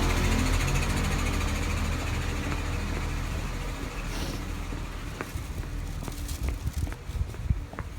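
Street traffic: a motor vehicle's engine running with a steady low hum, fading away over several seconds, followed by scattered light clicks near the end.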